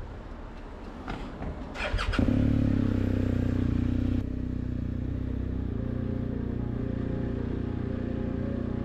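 BMW R1250GS motorcycle's boxer-twin engine starting about two seconds in, after a few clicks, then idling steadily. It is a little louder for its first two seconds before settling.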